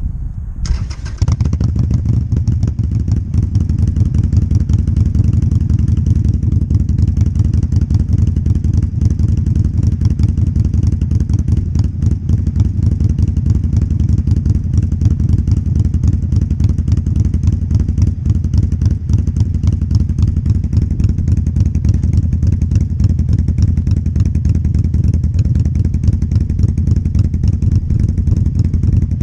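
Harley-Davidson Sportster Iron 883's air-cooled V-twin running steadily through a Vance & Hines aftermarket exhaust, a deep, even rumble that starts about a second in.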